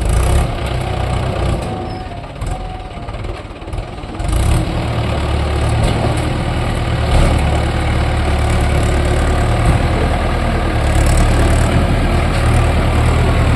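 Mahindra 575 DI tractor's four-cylinder diesel engine running steadily, getting louder and heavier about four seconds in.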